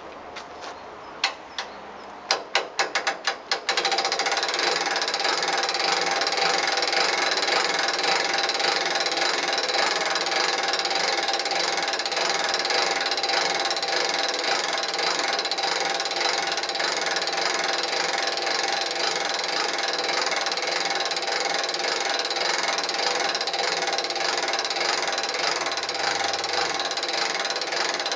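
A mechanism clicking: a few single clicks that quicken, then from about four seconds in a steady, rapid run of ratcheting clicks.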